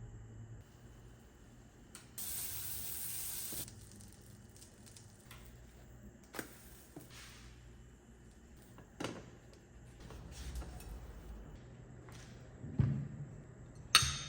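A short spray hiss about two seconds in, lasting about a second and a half, then a few scattered light knocks and clicks, the loudest two near the end.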